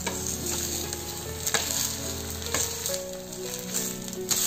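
Jowar dosa frying in oil on a hot non-stick tawa, giving a steady sizzle while a slotted spatula turns it over. The spatula clicks sharply against the pan a couple of times.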